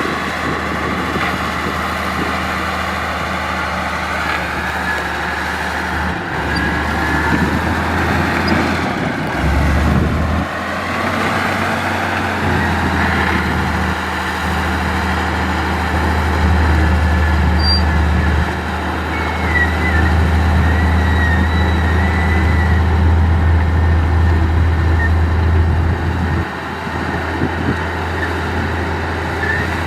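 Heavy diesel earthmoving machinery working: engines running steadily and swelling under load several times, with thin high squeals now and then.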